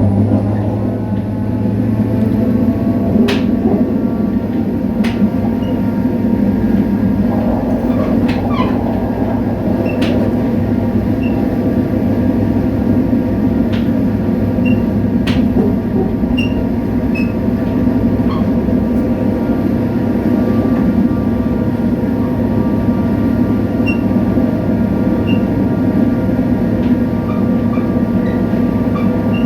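Diesel locomotive No. 7351's engine running steadily as the train travels, a low hum with several steady tones, broken by scattered sharp clicks and rattles.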